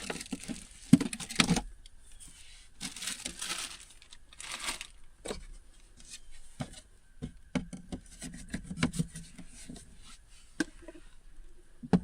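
Rustling and crinkling of gear being handled in a small enclosed space, with three short bursts of rustling in the first few seconds, then scattered clicks, light knocks and a few soft thuds.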